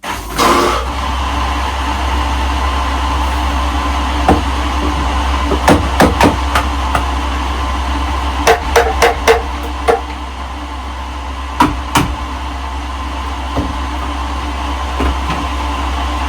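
Electric bilge pump running steadily with a low hum, switched back on while its float switch is suspected of sticking. About a dozen sharp knocks come through it, several clustered around the middle and two more later on.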